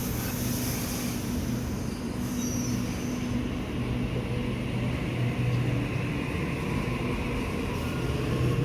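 Electric suburban train running, a steady low hum under a rolling rumble.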